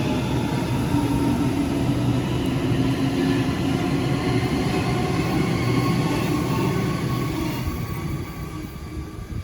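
Passenger train running past at close range: a steady rumble of wheels on rail with several held tones. It fades away over the last two seconds or so.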